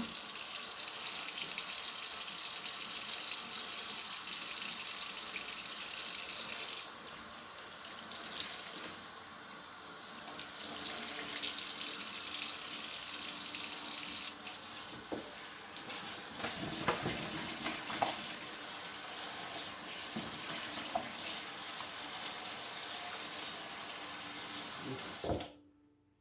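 Water running from a kitchen sink tap as dishes are washed, with a few light clinks and knocks of dishes partway through. The running water eases off for a few seconds, picks up again, and cuts off suddenly near the end.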